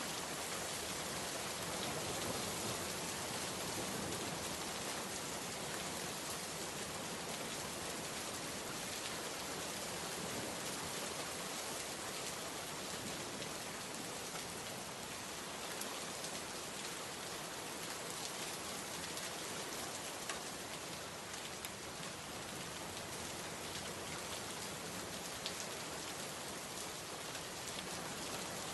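Steady heavy rain falling on surfaces, a dense even hiss full of fine drop patter, with a couple of slightly louder drop ticks.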